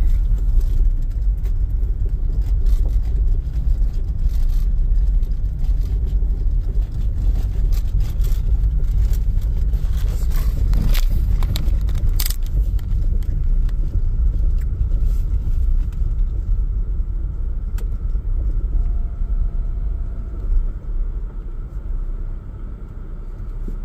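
A car driving slowly: a steady low rumble of engine and tyres, with scattered short rattles and knocks. The rumble eases slightly near the end.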